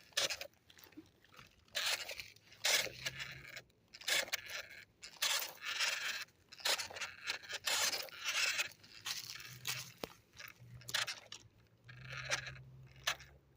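Repeated crunching and scraping over dry dirt and grass, roughly once a second, with a faint low hum underneath at times.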